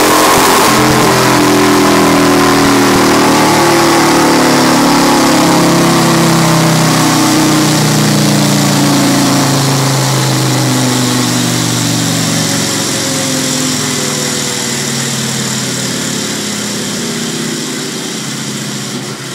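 Yamaha MT-01's 1670 cc V-twin running on a chassis dyno, its pitch falling slowly as it comes down from a run. A bright hiss drops away less than a second in, and the sound fades toward the end.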